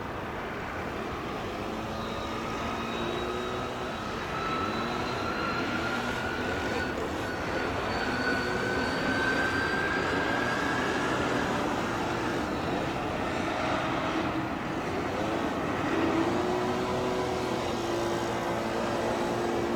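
Jet airliner engines running: a steady broad rumble that slowly grows louder, with a whine that gradually rises in pitch.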